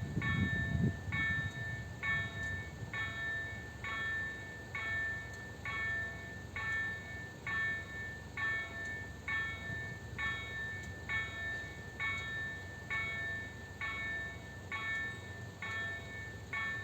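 Level-crossing warning bell ringing steadily, about one strike a second. The low rumble of a passing freight train fades out about a second in.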